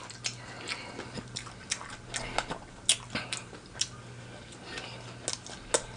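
A person chewing and crunching extra-crispy fried chicken wings, with irregular sharp crackles of the crust throughout.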